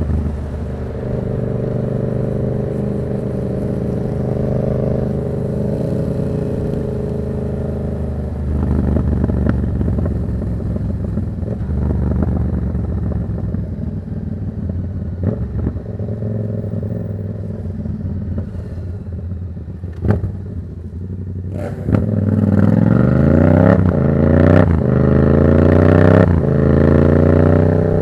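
Yamaha MT-07's parallel-twin engine through an aftermarket Black Widow exhaust, ridden: it holds steady revs for the first several seconds, then eases off and slows, with a few sharp clicks about twenty seconds in. It then accelerates hard through several gears, the pitch rising and dropping back at each shift.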